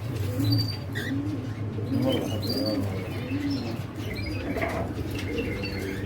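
Doves cooing in low, repeated calls, with small cage birds chirping higher over them.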